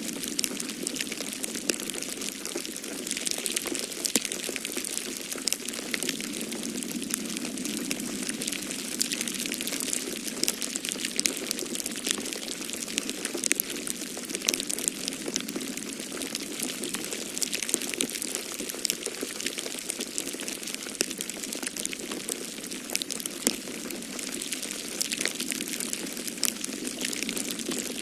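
Wood fire crackling in a fireplace, with frequent small sharp pops and snaps, over a steady rushing of storm wind.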